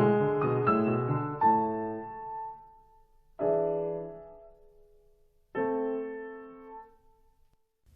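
Slow piano music. A busy passage fades out, then two single chords are struck and left to ring out and die away.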